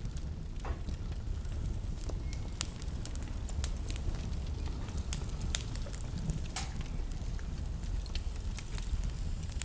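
Wood fire burning in a fireplace: a steady low rumble of the flames with irregular sharp crackles and a few louder pops.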